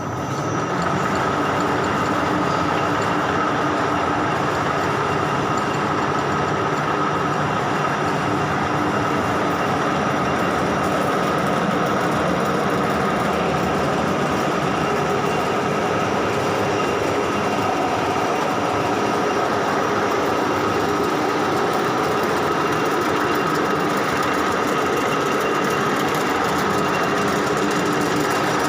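Wanderer 31 NU thread milling machine running, a steady mechanical drone with a constant high tone over a dense rattle, reaching full level within the first second.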